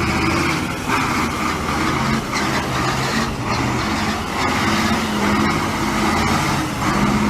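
Heavy truck engine running under load, its note shifting up and down in pitch, over road and tyre noise.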